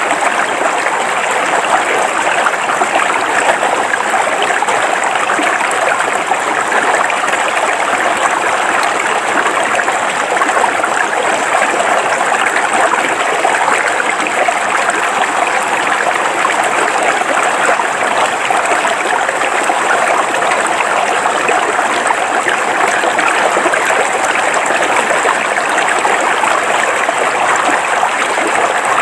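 River water running steadily over rocks: an even, unbroken rushing and babbling.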